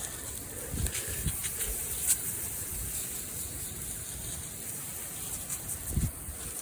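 Water sprayed onto a sawn cherry slab in short hissing bursts, with a few soft low thumps.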